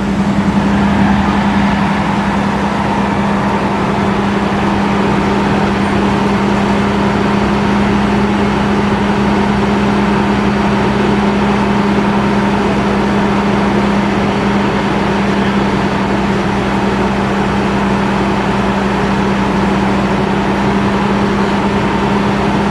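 Fire truck's engine running steadily at the scene, a constant loud hum that does not change.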